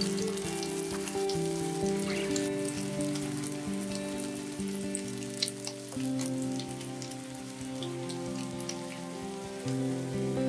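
Egg-battered jeon slices pan-frying in shallow oil, with a steady crackling sizzle from the hot oil, over soft background music with sustained notes.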